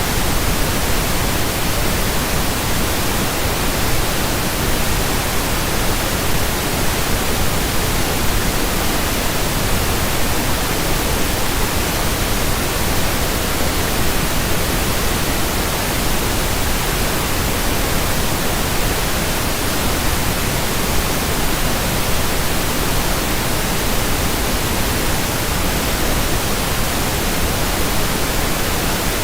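Steady pink noise: an even, unchanging hiss spread across the whole frequency range.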